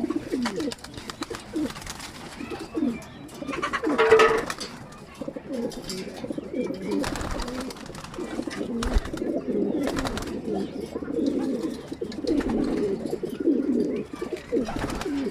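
Several racing pigeons cooing, many short low coos overlapping throughout, with one louder call about four seconds in. A few brief sharp knocks sound in the second half.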